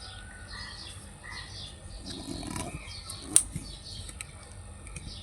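Birds chirping over and over in short falling notes, with one sharp click about three seconds in.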